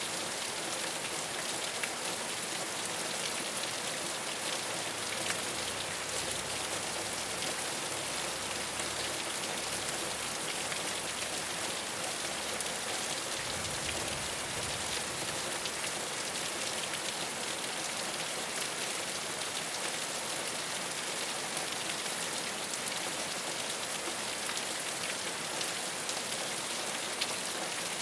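Steady rain falling on a rooftop: an even hiss of many drops, with occasional louder single drop ticks.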